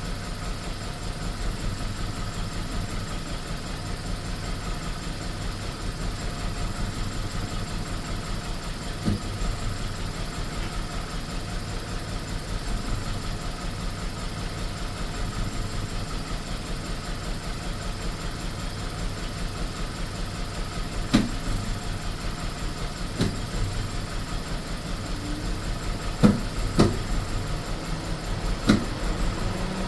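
BMW E46 318 engine idling with a steady low pulse and a handful of sharp knocks, mostly in the second half: a rough idle with misfires.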